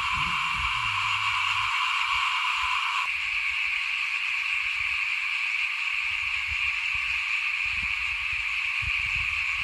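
A dense, steady chorus of small frogs calling, the many voices blending into a continuous high trill; the lower-pitched part of the chorus drops away about three seconds in.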